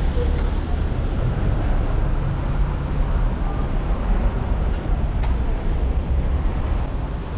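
Steady road traffic on a busy city avenue: passing vehicles with a continuous low engine and tyre rumble.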